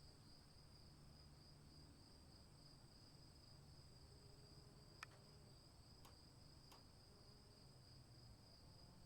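Faint, continuous chorus of crickets: a steady high-pitched trill. Three soft clicks come in the second half.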